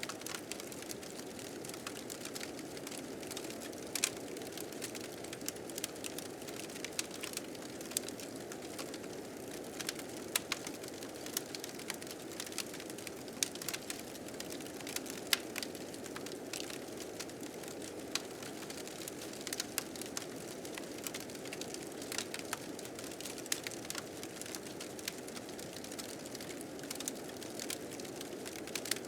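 Fire crackling with frequent sharp, irregular pops over a steady, low rush of blizzard wind.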